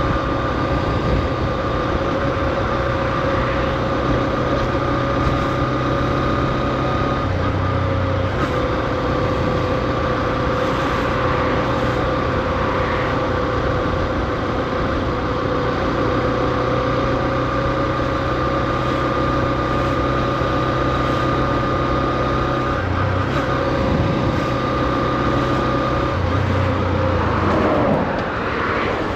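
Honda CB125F's single-cylinder engine running at steady, low revs, kept low while the new engine is run in, with a steady whine over the engine note. The note shifts slightly a few times, and a brief sweep in pitch comes near the end.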